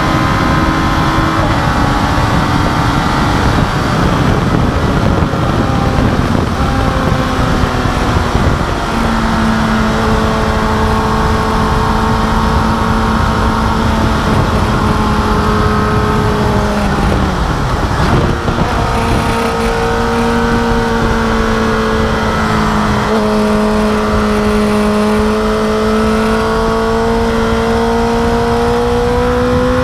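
Suzuki GSX-R1000 inline-four sportbike engine heard from on board at racing speed, held at high revs with heavy wind noise. The revs dip about a second in and again around two-thirds of the way through, as the rider shifts or brakes for a corner, then climb steadily near the end as the bike drives out under power.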